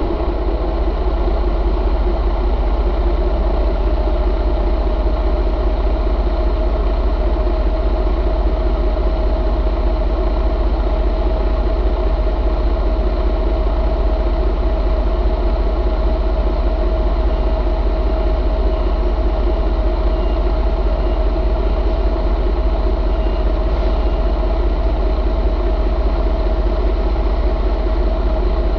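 Detroit Diesel DD15 inline-six diesel engine, freshly started, idling steadily with an even, unchanging drone.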